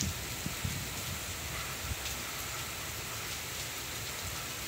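Heavy rain falling steadily: a dense, even hiss of rain on the street and the balcony. Gusty wind adds low rumbles on the microphone, strongest in the first second.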